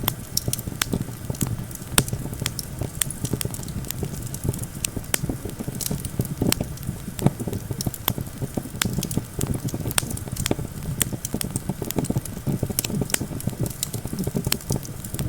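Campfire crackling, with many sharp, irregular pops and snaps over a steady low rumble of wind.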